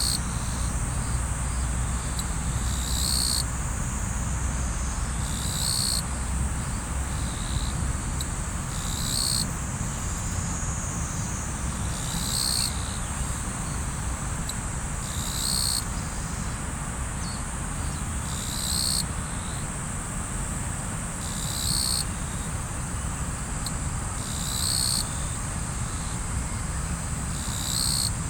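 Riverside ambience: flowing river water as a steady rush, under a continuous high insect trill, with a louder insect call repeating about every three seconds.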